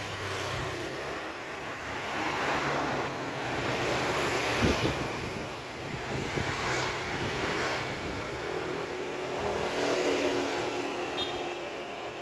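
Motor vehicles passing on a street, their engine and tyre noise swelling and fading several times. A steady engine hum comes in over the last few seconds.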